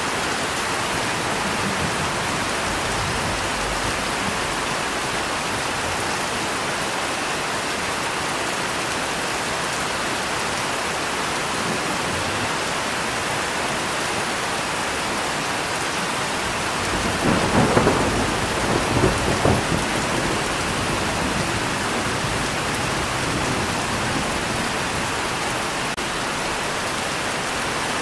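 Steady heavy rain falling, with one roll of thunder rumbling for about three seconds past the middle, swelling in a few peaks before it fades back into the rain.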